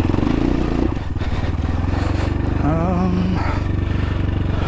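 X-Pro Templar X 250 dirt bike's single-cylinder engine running at low speed, picking through rocks, with a short rise in revs near the start. A brief wordless vocal sound from the rider about three seconds in.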